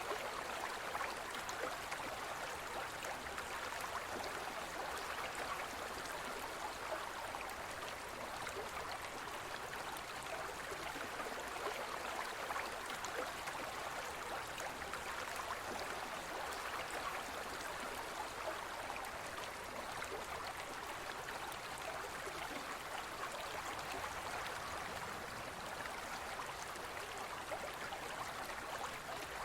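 Small forest river flowing over rocks: a steady rush of water with fine splashing and gurgling.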